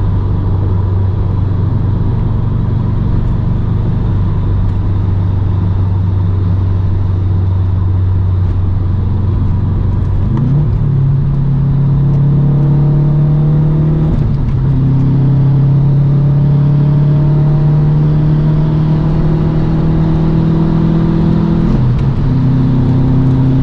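2008 Subaru STI's turbocharged flat-four engine through a full Invidia exhaust (catted downpipe and N1 cat-back), droning steadily on the road. About halfway through the engine note steps up in pitch and holds, with brief dips twice after that.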